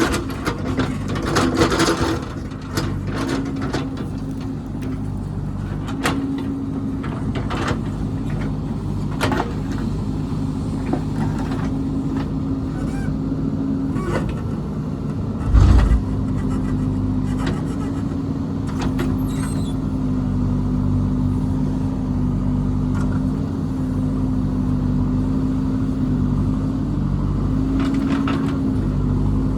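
Diesel engine of heavy construction machinery running steadily, with scattered clanks and knocks, and one heavy low thump about halfway through.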